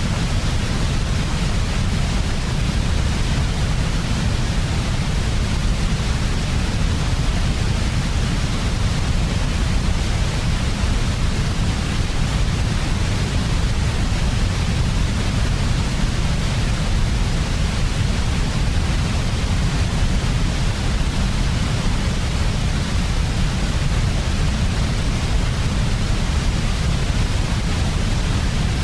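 Steady white noise played as a sleep sound for babies: an even, unchanging hiss with a strong low rumble underneath.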